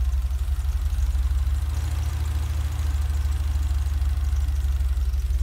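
6.0-litre LY6 LS V8 on Holley Sniper throttle-body fuel injection idling steadily with a deep, even rumble, cold and freshly started on its new fuel system. It is running rich: the owner calls it running super fat.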